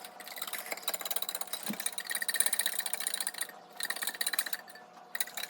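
Wire whisk beating eggs and mayonnaise in a glass bowl: rapid, steady clicking of metal against glass with a light ringing, in two runs with a short break between.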